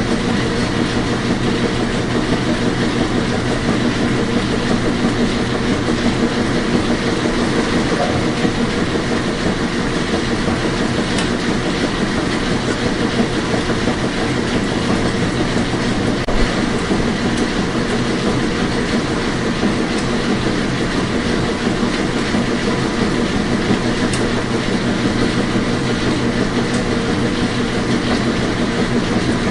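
Washing machine running, a steady whirring hum with a few faint clicks.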